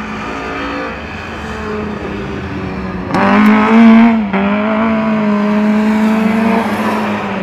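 Car engine running hard on a rally course: a steady engine note that jumps up and climbs loudly about three seconds in, drops abruptly a second later, then holds high revs before easing off near the end.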